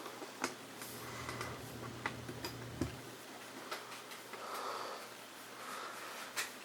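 A few faint, sharp clicks scattered through light rustling, with a low hum for the first few seconds.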